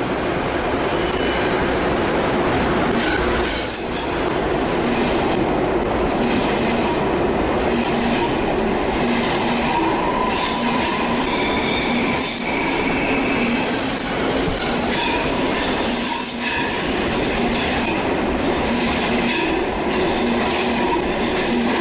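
ICE high-speed train rolling slowly into a station along the platform: a steady rumble of wheels on rails, with thin high steady tones over it and a few faint clicks.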